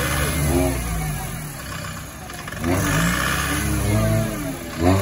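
Off-road 4x4's engine revving hard several times, the pitch climbing and dropping back with each rev.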